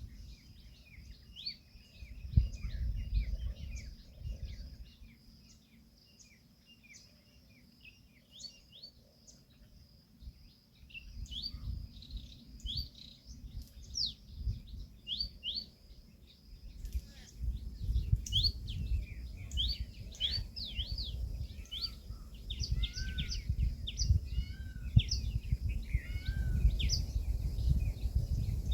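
Small birds chirping: many short, quick high chirps and twitters, sparser in the middle and busier in the second half, with a few lower short calls repeated near the end. A low rumble sits underneath and swells in the second half.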